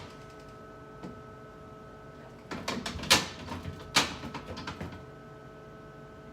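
Things being set down and shifted on refrigerator shelves: a short run of knocks and clatters, with two sharp knocks among them, over a steady hum.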